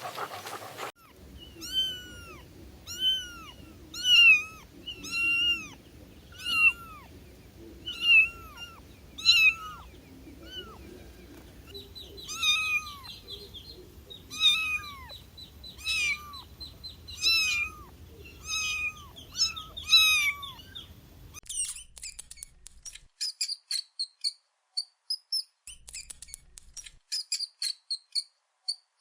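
Kitten mewing over and over, short high rising-and-falling mews about once a second for some twenty seconds. Near the end they give way to a quick run of high, thin chirps and clicks.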